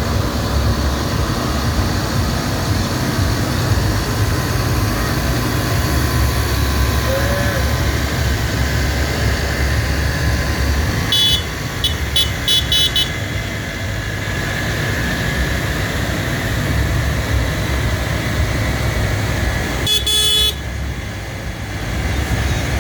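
Tractor engines running with a steady low drone. A horn gives about five short toots around the middle, and one more short blast near the end.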